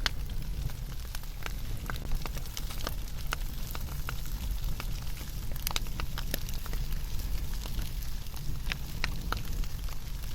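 Wood fire crackling in a fire pit: irregular sharp pops and snaps over a steady low rumble.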